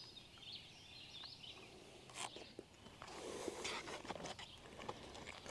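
Faint songbirds singing in the early morning, with a few sharp clicks of something being handled about two and three and a half seconds in.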